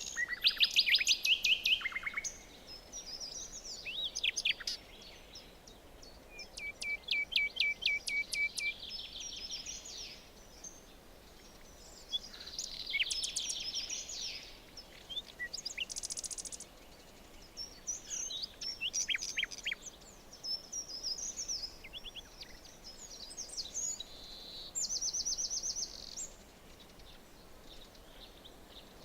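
Forest songbirds singing: bursts of rapid chirps and trills every few seconds, with short gaps between, over a faint steady background hiss.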